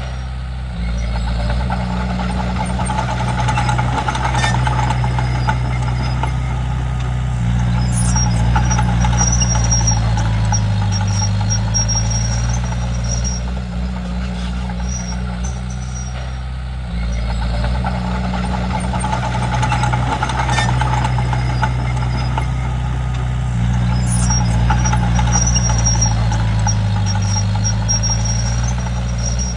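Komatsu D31P bulldozer's diesel engine running under working load, a steady low drone that swells and eases as the load changes, its pitch dipping and recovering twice. A faint high whine comes and goes over it.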